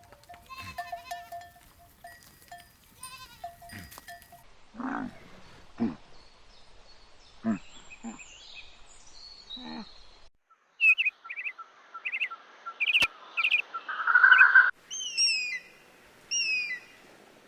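A run of different animal calls: short bleat-like calls from livestock such as goats or sheep in the first half, then quick repeated bird chirps and, near the end, pairs of falling whistled notes.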